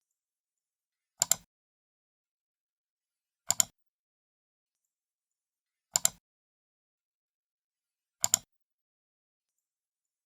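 Computer mouse left button clicked four times, about two to two and a half seconds apart; each click is a quick double tick as the button is pressed and released, with silence between.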